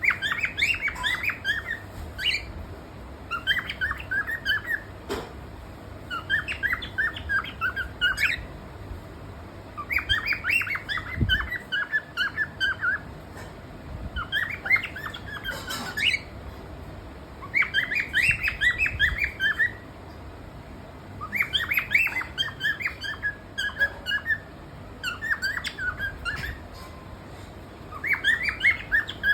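A bird chirping in repeated bouts of quick, high chirps, each bout about two seconds long, with a short pause before the next, about nine bouts in all.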